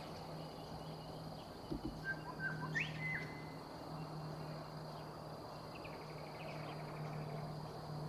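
A few short bird chirps and whistles about two to three seconds in, with fainter chirps later, over a steady thin high tone and a low steady hum; a brief low thump comes just before the chirps.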